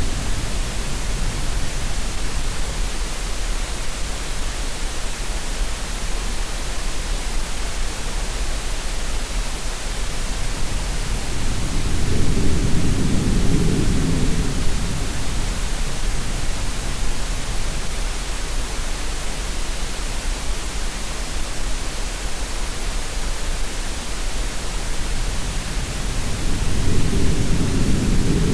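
Steady green-noise hiss mixed with sea sounds: a low swell rises and fades about every fifteen seconds, once near the middle and again near the end.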